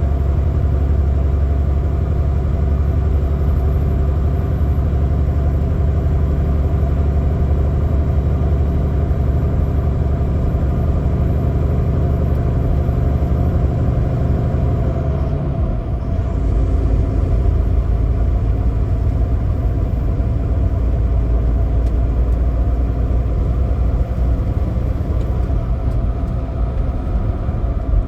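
Semi truck's diesel engine running steadily as the rig drives, with a constant low rumble; about halfway through the engine note changes and drops lower, then carries on.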